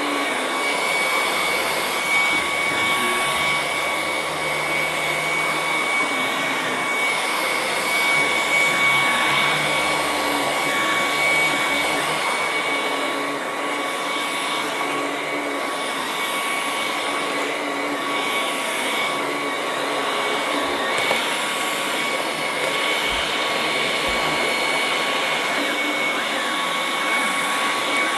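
Ryobi 18V cordless vacuum running steadily: a rush of air with a steady high motor whine over it, swelling slightly now and then as it is moved about.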